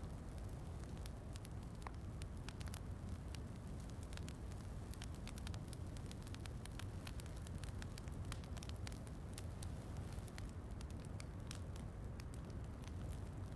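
Wood fire crackling, with many small irregular pops, over a steady low rush of falling rain.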